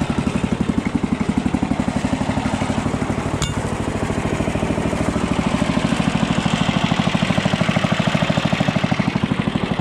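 Engine driving the old WWII aircraft-generator welding machine, idling steadily with a rapid, even chug. A single metallic clink about three and a half seconds in.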